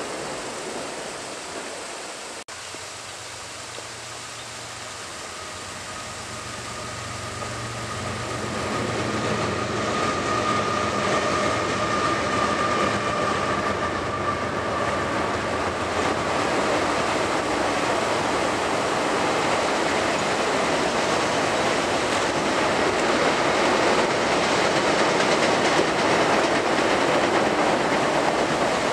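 Intermodal freight train's cars rolling across a steel truss bridge: a steady rumble and clatter of wheels on the rails that grows louder over the first ten seconds or so and then holds, with a faint high whine for a few seconds in the middle.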